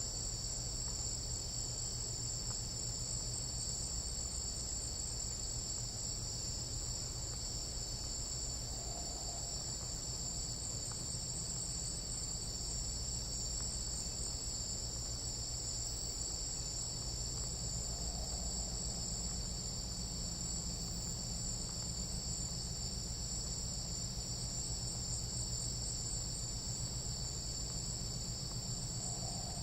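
Tropical rainforest night-insect chorus: a steady, unbroken high-pitched trilling. A faint, lower call comes in about every nine seconds.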